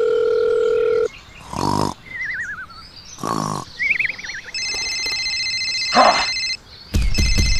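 A steady phone dial tone cuts off about a second in. Then a cartoon snoring sound effect plays: two snores, each followed by a wavering whistle. From about four and a half seconds in, a phone rings with an electronic ringtone, joined by a buzzing pulse near the end.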